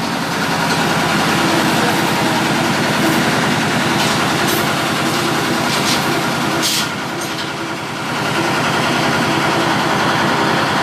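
An engine idling steadily with a fast, even firing beat, with a few short, sharp sounds about halfway through.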